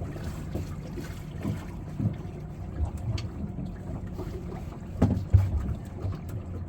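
Wind buffeting the microphone aboard a small fishing boat on the water, over a steady low rumble, with scattered light knocks and a couple of heavier thumps about five seconds in.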